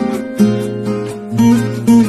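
Background music: acoustic guitar, strummed and plucked chords, with a new chord struck about every half second to second.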